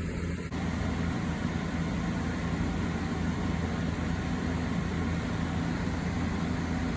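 National commercial-type ventilation fan running steadily: a low hum under a rushing-air hiss. About half a second in, the hiss gets a little louder and fuller and stays that way.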